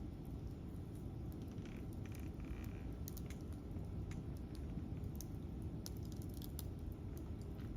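Wood campfire crackling: irregular sharp pops and ticks over a steady low rumble, with a brief hiss about two seconds in.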